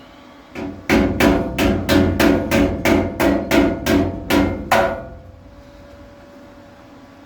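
Hammer tapping sheet steel: about a dozen evenly spaced blows, roughly three a second, each with a short metallic ring, stopping about five seconds in.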